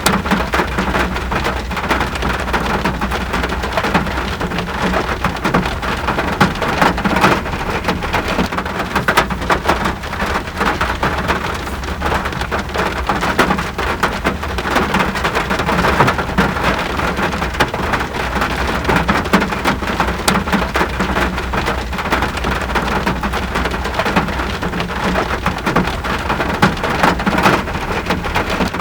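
Steady rain falling, a dense patter of drops over a constant low rumble.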